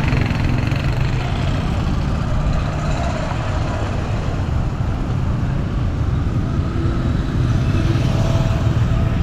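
Motor vehicle running on the road, a steady low rumble with road noise.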